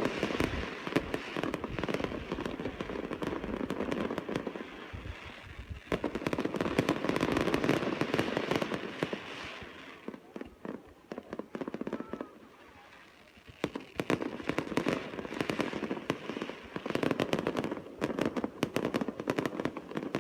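Fireworks display: a dense run of rapid crackling and popping, thinning out for a few seconds past the middle, then building up again.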